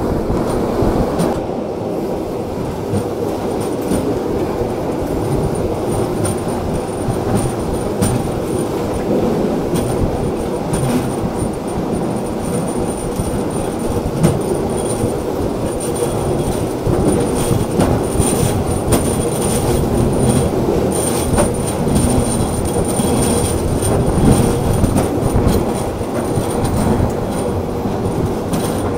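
Bernina line train rolling around a tight spiral curve, heard from an open-air carriage. The wheels rumble steadily on the rail with scattered clicks, and a thin, high wheel squeal comes and goes in the second half.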